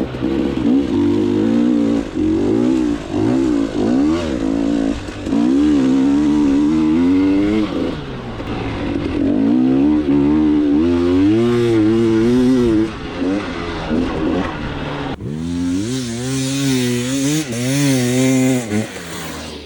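KTM 300 two-stroke dirt bike engine revving up and down as the bike is ridden, its pitch rising and falling with the throttle. A loud rushing hiss joins about fifteen seconds in.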